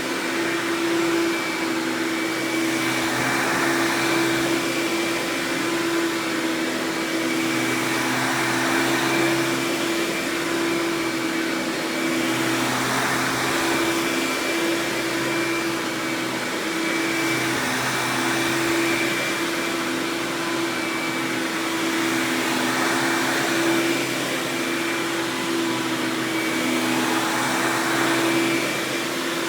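Hoover Power Drive Supreme upright vacuum (model U6318-930) running steadily: a constant motor hum and airflow rush that swells and eases every four to five seconds.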